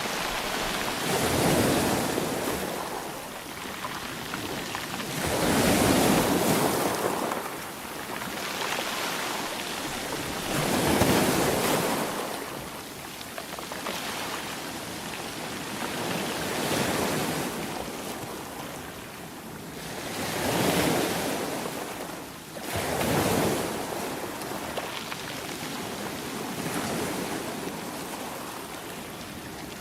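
Sea waves breaking and washing on a shore, surging in loud swells every few seconds over a steady hiss of surf, with some wind on the microphone.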